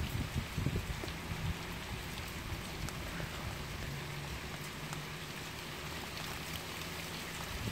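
Steady rain falling, an even hiss, with a few short low thumps in the first second and a half.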